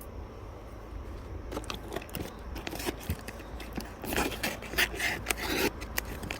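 Metal cooking utensils scraping and rubbing on a griddle while makchang is being grilled, in irregular strokes that begin about a second and a half in and grow busier toward the end.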